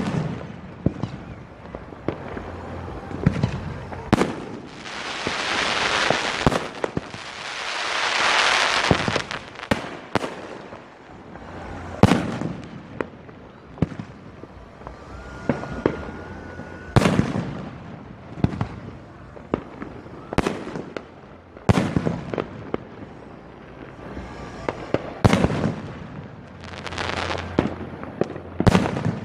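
Fireworks display: aerial shells bursting in a run of sharp, irregularly spaced bangs, with two longer rushing swells of noise about five and eight seconds in.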